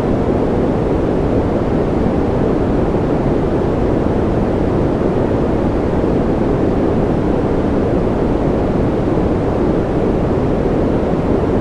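Baby-sleep white noise: a steady, unchanging rush, deep and rumbling, with most of its weight in the low end and little hiss on top.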